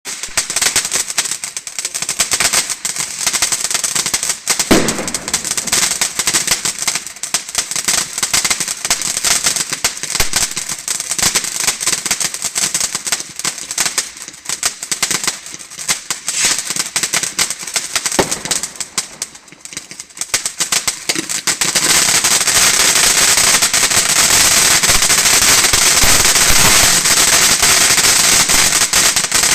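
Firework fountain (volcano) burning, spraying with a dense, rapid crackle. It thins out briefly, then grows louder and fuller about three quarters of the way through.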